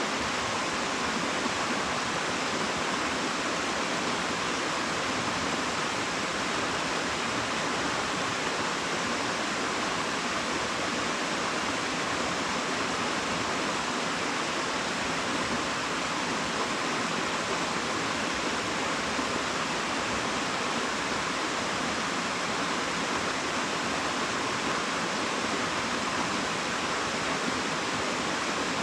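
Steady rush of a waterfall's falling water, an even unbroken roar.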